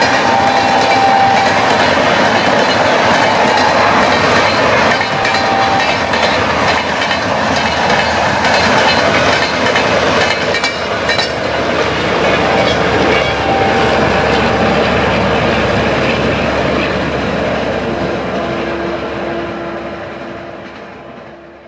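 Passenger coaches of an express train rolling past at speed, a steady rumble of wheels on rail that fades away near the end as the last coaches pass.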